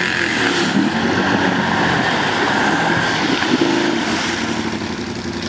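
Quad bike (ATV) engines revving and changing pitch as the machines drive through a muddy water puddle, over a constant rushing, splashing noise.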